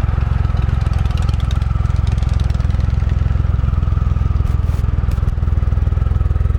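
2015 Triumph Rocket III's 2300cc liquid-cooled inline three-cylinder engine idling steadily, just after starting without trouble.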